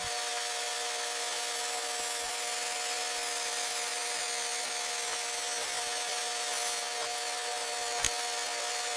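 A power tool running steadily: an even hiss with a faint steady hum, and one short click near the end.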